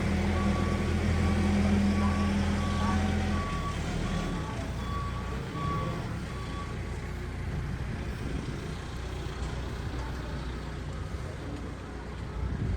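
A vehicle's reversing alarm beeping about once every three-quarters of a second over a heavy engine running. The engine drops away about three and a half seconds in, and the beeps stop about seven seconds in.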